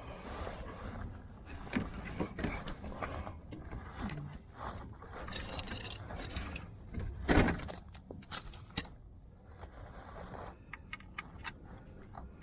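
Metal tools and parts clinking and scraping in an irregular clatter during oil-change work on a car, with the loudest knock about seven seconds in.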